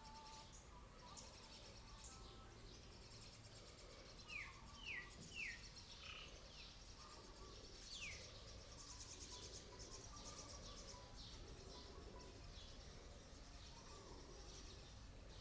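Faint bird chirps: three quick down-slurred calls about four seconds in and another about eight seconds in, over a faint high insect buzz.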